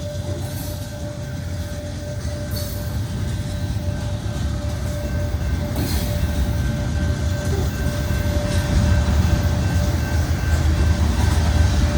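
Freight train rolling past, a steady rumble of wheels on rails that grows gradually louder.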